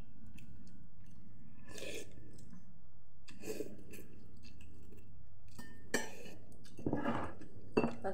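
People chewing boiled noodles, with a few short, separate mouth noises spread through and a cluster of louder ones near the end, over a steady low hum.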